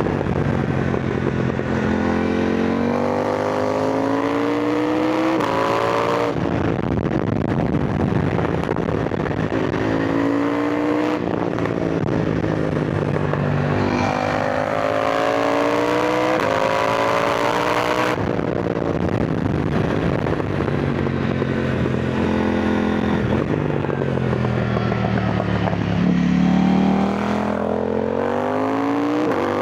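KTM 990 Duke twin-cylinder engine pulling hard under acceleration. Its pitch rises for several seconds and then drops sharply at a gear change or when the throttle closes, three times over, with wind rushing across the helmet-camera microphone.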